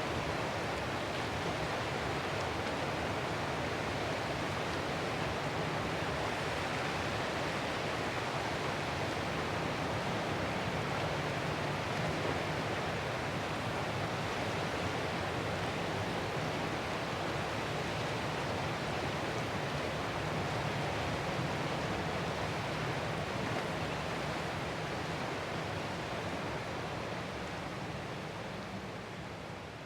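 Ocean surf washing steadily in an even, hiss-like roar, with slow gentle swells and no distinct single breakers. It begins to fade out in the last few seconds.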